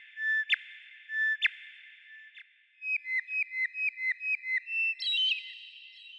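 Bird song of clear, pure whistled notes. First come a few level notes about a second apart, each ending in a sharp downward flick. About halfway in, a quick run of some eight short notes follows, and a higher, more complex note comes near the end.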